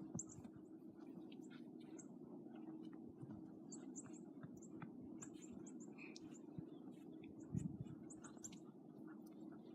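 Faint chirping of small birds: short, very high chirps in quick runs of two or three, over a steady low hum.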